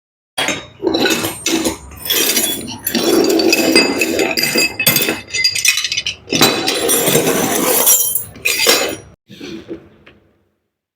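Metal parts and hand tools clinking and clattering in irregular bursts, the noise of handling washing-machine gearbox hardware, dying away to a few fainter knocks near the end.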